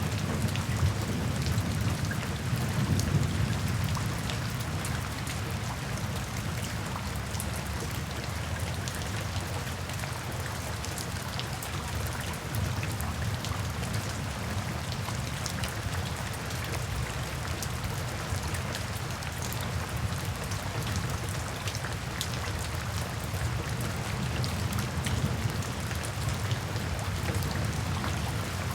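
Steady rain, with scattered drops pattering. A low rumble of thunder in the first few seconds fades away.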